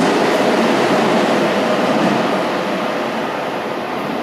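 A Keihan electric train pulling away from an underground platform into the tunnel, its running noise fading steadily as it goes.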